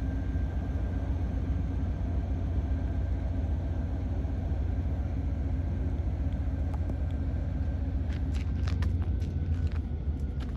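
Heavy freight coal train rumbling steadily as it slows to a stop, with a constant low hum. A run of short, sharp high clicks and squeaks comes from the train about eight seconds in.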